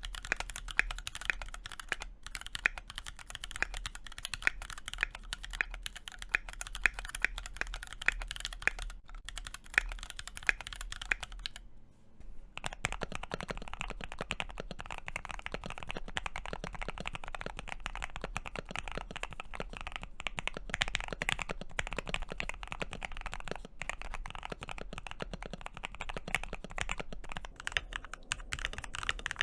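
Mechanical keyboard typed on fast and continuously, with dense key clacks and louder strokes recurring every second or so. About 12 seconds in the typing breaks off briefly and resumes with a different, more even sound, a second keyboard.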